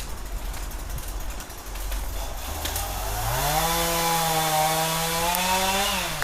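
Two-stroke chainsaw idling low, then revved up about halfway through and held at high speed, its pitch dropping back near the end.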